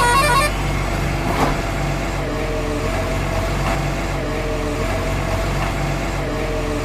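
Truck engine sound running steadily, a low hum with a slowly repeating rise and fall in its tone; a short bright chime tune stops about half a second in.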